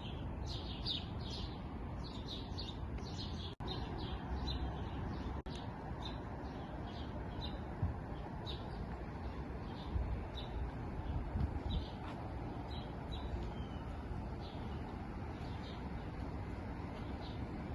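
Small songbirds chirping: many short, high chirps, busiest in the first few seconds and sparser after. A steady low rumble of background noise runs underneath, and the sound cuts out for an instant twice.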